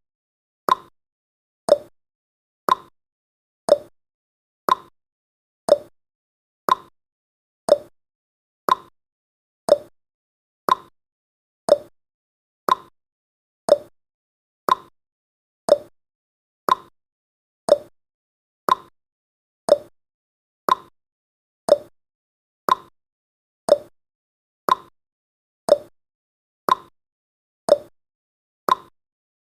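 Countdown timer's ticking sound effect: a short, sharp tick about once a second, each dying away quickly.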